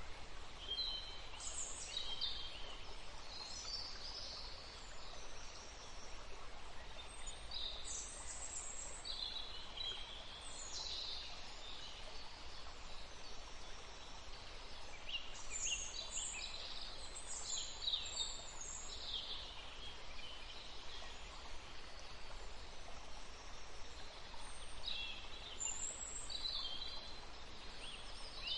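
Several songbirds chirping and singing in short, high phrases, coming in clusters every few seconds over a steady background hiss.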